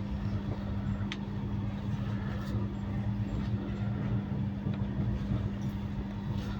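Train running: a steady low rumble with a constant hum and a few faint clicks.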